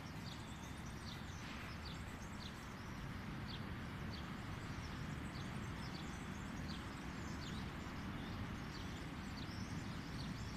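Small birds chirping: short, high, downward chirps repeated about once or twice a second, over a low, steady background rumble.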